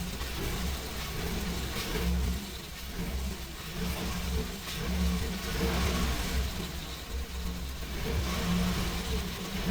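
GM 6.0 L L96 gas V8 engine running with a misfire, revved up and dropping back several times.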